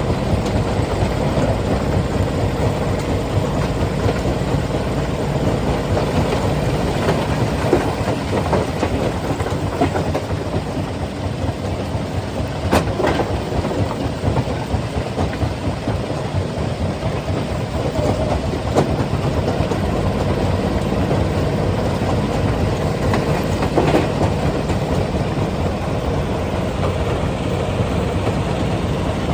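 Rock crusher running steadily, a continuous rumbling rattle of machinery and stone, with a few sharp knocks standing out, the clearest about a third and two-thirds of the way through.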